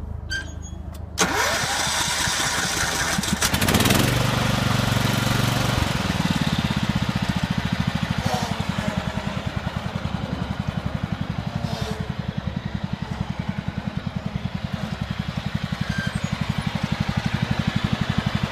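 Riding lawn tractor engine running with the blade clutch disengaged. It gets suddenly louder about a second in and revs up near four seconds. It then runs steadily with a fast, even beat.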